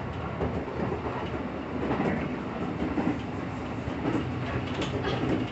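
Chuo Line local train running, heard from inside the carriage: a steady rumble of the running train with some clacks of the wheels over rail joints.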